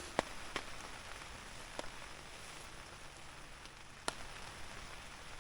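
Rain falling on a camp tarp overhead: a steady hiss with a few sharper single drop hits, about four in all.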